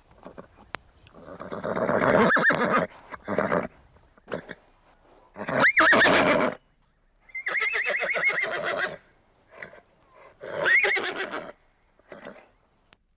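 Horses neighing: about five separate whinnies with gaps between them, the loudest about six seconds in.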